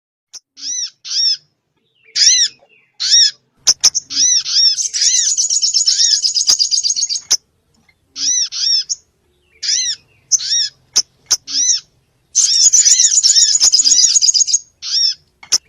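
Bird-lure recording of small sogon birds' noisy calls: series of short, high, arched chirps, broken twice by long, rapid chattering trills, with a few sharp clicks.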